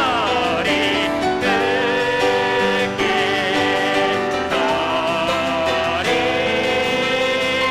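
Church praise team singing a Korean worship song, the voices held in long notes with vibrato over piano accompaniment.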